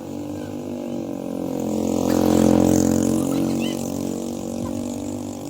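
A small engine running at a steady pitch, growing louder to a peak about two and a half seconds in, then fading somewhat.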